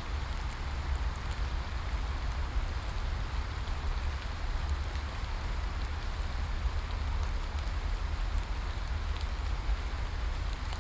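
Steady rain falling: an even, continuous hiss with scattered faint drop ticks over a low rumble.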